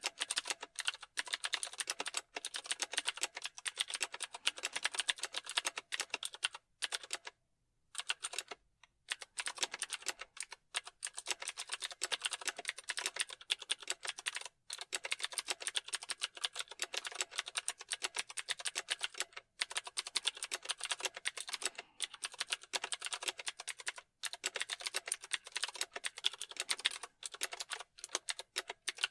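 Computer keyboard typing: rapid, continuous key clicks, with brief pauses now and then, the longest about a second and a half.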